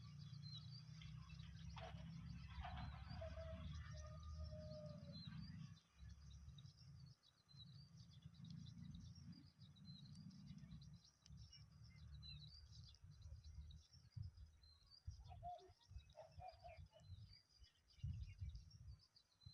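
Faint birds chirping: many short high chirps, with a few lower calls, over a low rumble.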